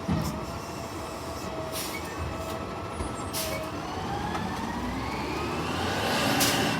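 Garbage truck's engine and drivetrain speeding up. A few short hisses of air come in the first half, then a whine climbs steadily in pitch for several seconds and eases off near the end.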